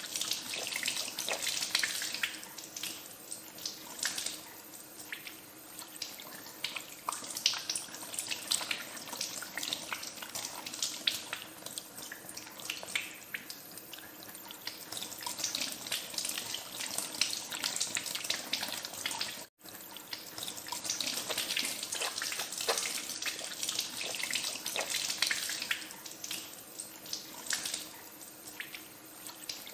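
Tap water running into a sink, with irregular splashing as hands are washed under the stream. The sound cuts out for an instant about two-thirds of the way through.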